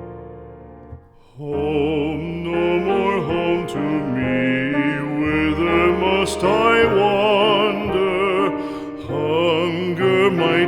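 A piano chord fades out. About a second and a half in, a singer with strong vibrato starts a slow song over piano accompaniment.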